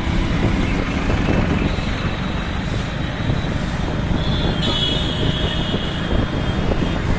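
Traffic and road noise heard from a moving motorbike, dense and steady, with a high tone coming in for about a second just past the middle.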